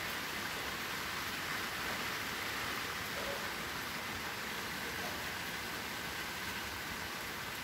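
Steady rain falling on the leaves of a garden tree, an even hiss without single drops standing out.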